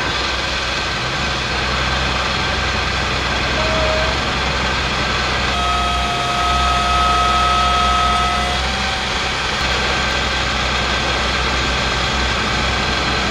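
Heavy tow truck engine running steadily, with a steady high whine for about three seconds midway.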